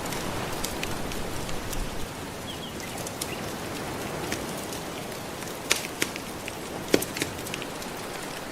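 Wood fire crackling with scattered sharp pops, the two loudest about six and seven seconds in, over a steady wash of gentle ocean waves.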